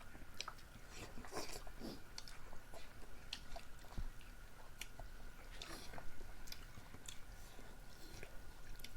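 A person chewing and eating chicken close to the microphone, with scattered wet mouth clicks and smacks.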